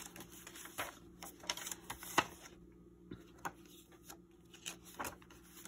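Pages of a handmade paper journal being turned and handled: scattered paper rustles and light taps, the sharpest about two seconds in, over a faint steady hum.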